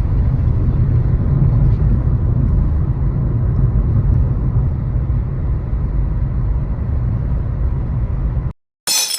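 Low, steady rumble of a car driving, which cuts off abruptly about eight and a half seconds in. A brief sharp crackle follows near the end.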